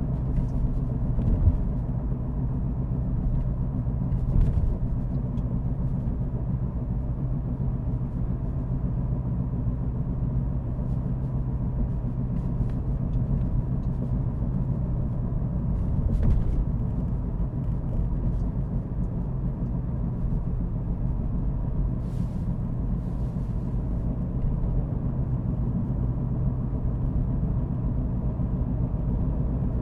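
A car driving at a steady pace: an even, continuous engine and road rumble, with a few faint bumps along the way.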